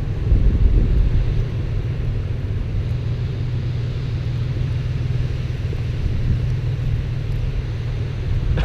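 Wind buffeting the microphone in a blizzard: a steady low rumble with a fainter hiss over it.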